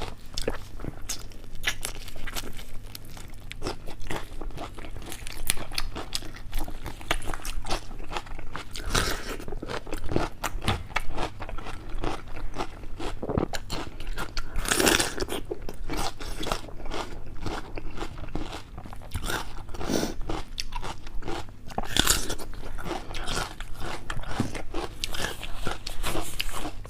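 Close-miked crunching and chewing of food: a steady run of crackly bites and chews, with louder crunches now and then.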